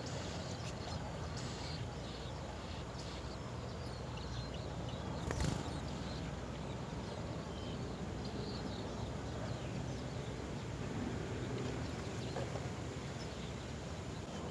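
Faint, scattered high chirps of small birds over a steady outdoor rumble and hiss, with a single sharp knock about five and a half seconds in.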